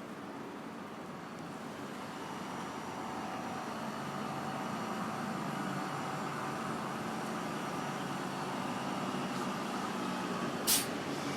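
City street traffic, with a heavy vehicle's engine running close by and growing gradually louder. A short, sharp hiss comes near the end.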